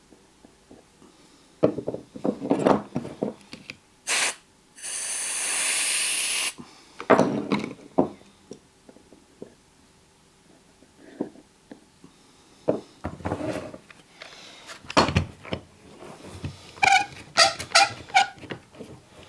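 Workbench handling noises: a string of knocks and clicks, with a steady hiss lasting under two seconds about five seconds in and a few short squeaks near the end.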